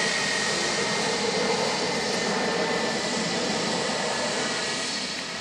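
Jet aircraft engines passing by: a broad steady rush with a high whine that drops slightly in pitch, slowly fading.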